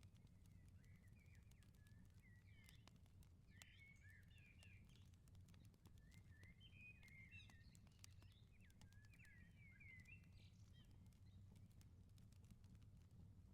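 Faint wood fire crackling with scattered sharp pops, while small birds chirp in quick clusters over a low steady rumble.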